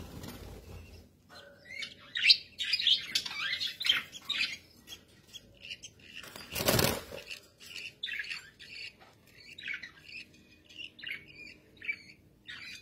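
Budgerigars chirping and chattering in quick, short calls. About halfway through comes a brief, loud rush of noise.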